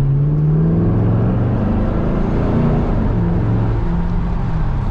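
Car engine accelerating hard, heard from inside the cabin: its pitch climbs, drops back at each upshift and climbs again, two or three times.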